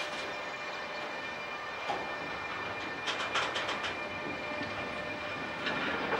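Freight train of covered hopper wagons rolling slowly, pulling away from a stop: a steady rumble of wheels on rails with scattered clacks and knocks, a quick cluster of them about three seconds in.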